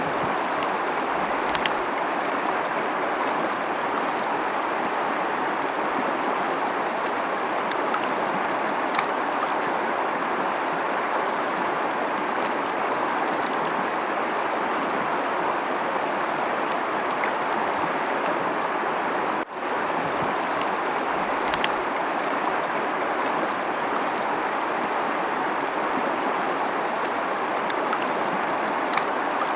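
Fast-flowing river rushing over rocks: a steady, even rush of water with faint splashes and trickles. It drops out for a split second about two-thirds of the way through.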